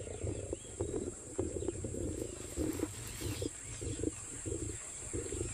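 Lions growling over a kill as they feed, a rough sound broken into rapid short pulses that stop near the end. A steady high insect trill runs behind.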